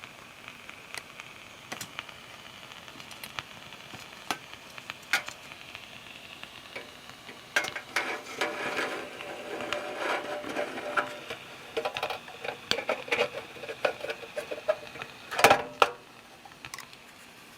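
J. Falk model 143/2 toy steam engine hissing and sizzling, with scattered sharp clicks. About halfway through the sputtering and crackling grow busier, with a louder burst near the end.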